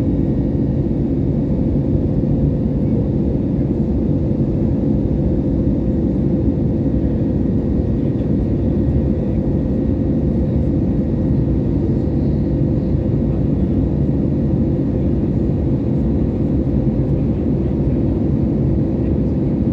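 Steady cabin drone of an Airbus A320neo in flight: a low, even rumble of engine and airflow noise with a faint steady hum over it.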